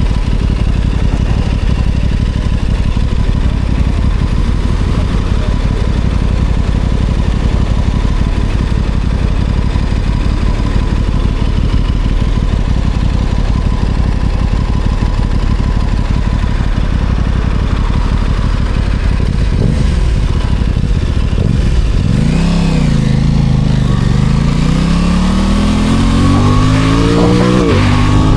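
Aprilia Tuono 660 Factory's parallel-twin engine riding along under a steady low rumble. About 22 seconds in, the engine note rises and falls, then climbs steadily as the bike accelerates, with a shift near the end.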